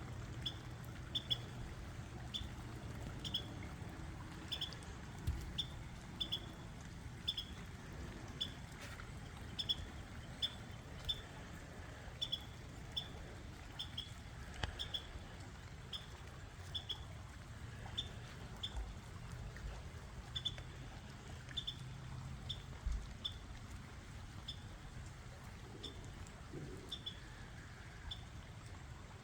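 A bird chirping over and over, short high chirps often in pairs, about once a second, over a steady low hum and hiss.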